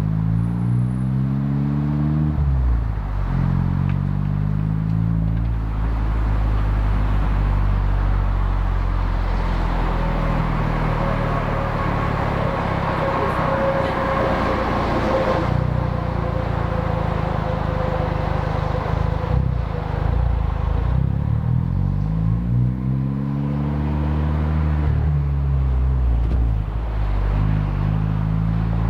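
Exhaust note of a Honda Civic Type R FK8's turbocharged 2.0-litre four-cylinder, with a catted downpipe and stock catback, picked up by a microphone at the exhaust while driving. The pitch climbs and drops twice as it accelerates through gears, holds fairly steady through the middle, then climbs through two more gears near the end.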